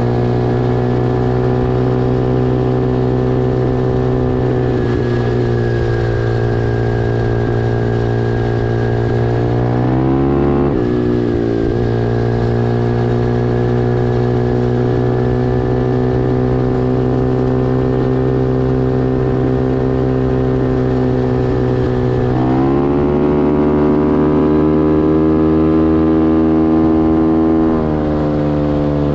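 Pit bike engine running steadily at high revs. About ten seconds in the pitch briefly dips and climbs back, it rises again a little past twenty seconds, and it eases off slightly near the end.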